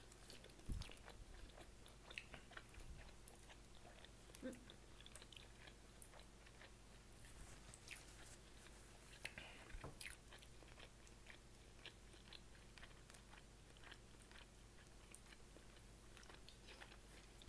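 Faint chewing of people eating, with soft mouth clicks and a few sharper clicks scattered through.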